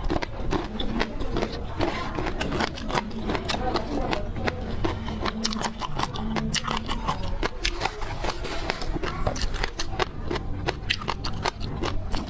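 Close-miked eating of seafood: dense, irregular crunching, cracking and chewing clicks from shells and flesh being bitten.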